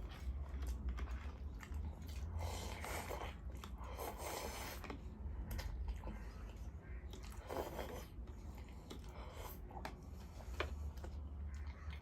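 A person chewing and eating food close to the microphone: wet mouth clicks with a few longer, louder eating sounds, over a steady low hum.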